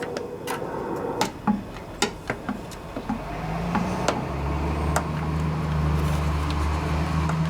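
Scattered light clicks and knocks from handling the starter pull rope and plastic starter parts, with a steady low hum setting in about three seconds in.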